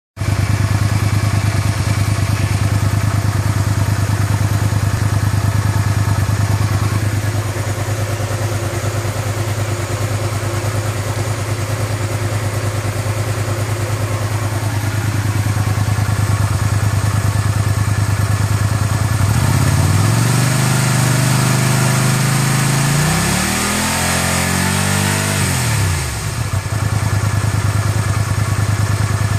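Honda VTR250's 250 cc V-twin engine idling steadily, then revved up and held about two-thirds of the way in, followed by a few quick throttle blips before it drops back to idle.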